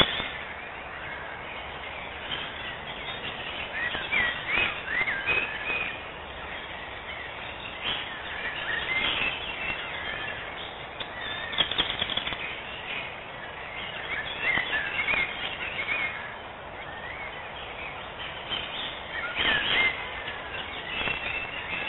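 Small birds chirping and twittering, many short calls that rise and fall, some in quick clustered runs, over a steady outdoor hiss.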